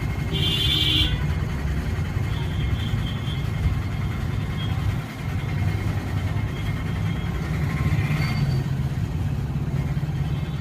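Suzuki Access 125 scooter's single-cylinder engine running steadily, just after its timing chain, rockers and camshaft were replaced.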